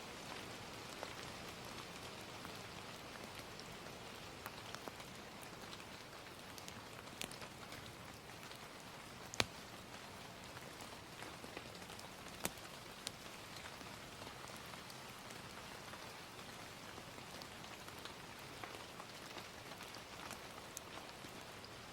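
Gentle steady rain with scattered sharp crackling pops from a wood fire, the loudest pop about nine seconds in.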